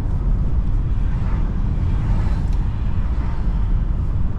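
Car driving on the road, a steady low rumble of road and engine noise heard from inside the cabin.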